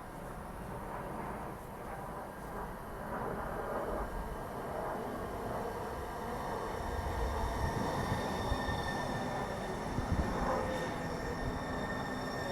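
Link light rail train running on the tracks, a rumble of wheels on rail that builds over several seconds. Near the end, high steady tones and a slowly falling whine come in as the train slows.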